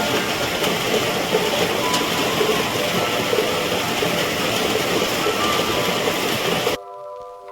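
Steady rain hiss that cuts off suddenly near the end, giving way to soft mallet-percussion music.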